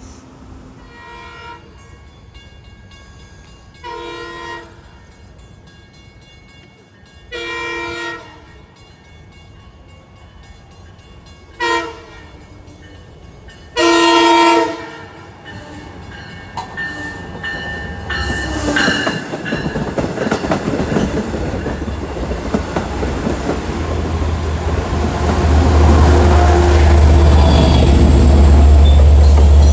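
Train horn sounding the grade-crossing signal, long, long, short, long, as a diesel train approaches. Its rumble then builds into a loud, steady low drone and rail clatter as it passes close by.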